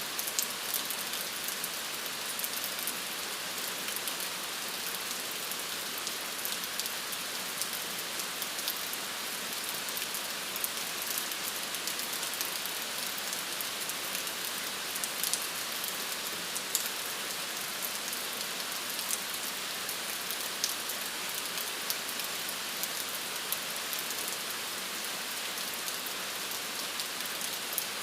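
Steady rain falling on a surface: an even hiss with many sharp drop taps scattered through it.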